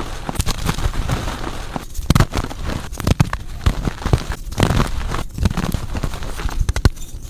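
Soft, powdery gym chalk being crushed and crumbled, a dense run of irregular crackles and crunches with a few sharper snaps among them.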